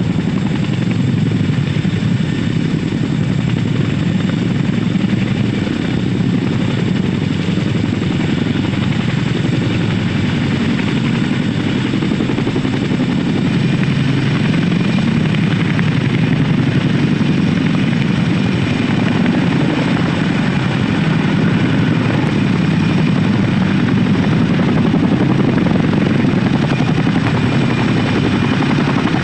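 Boeing CH-47 Chinook tandem-rotor helicopter running steadily and loudly: a deep rotor thrum with thin, steady whining tones above it.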